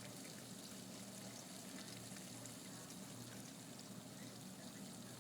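Faint, steady hiss with a low hum underneath.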